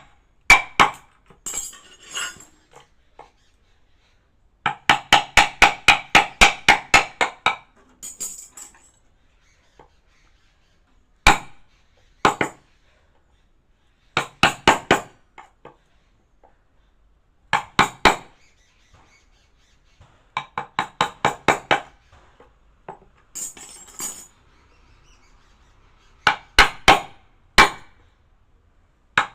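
A hammer tapping a carving chisel into wood, each strike giving a sharp knock with a short metallic ring. The strikes come in bursts of several quick taps, about four or five a second, with pauses and a few single strikes in between.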